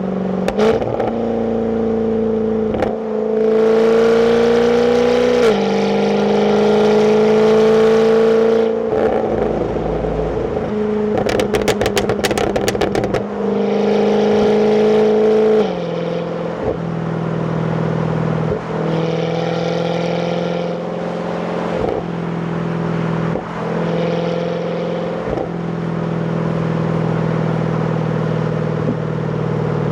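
Jaguar F-Type's supercharged 5.0-litre V8 on its stock exhaust, driving: the engine pulls up through the revs in several stretches, with gear changes between them, then runs steadily at a cruise. Midway there is a brief run of sharp cracks.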